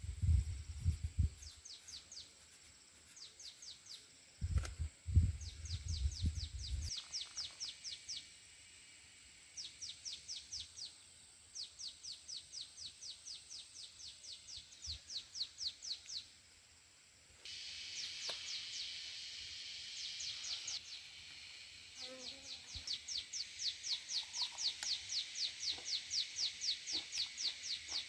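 A bird calling in long runs of quick, evenly repeated high chirps, about five a second, pausing and starting again several times. Low rumbling thuds come in the first second and again from about four and a half to seven seconds in.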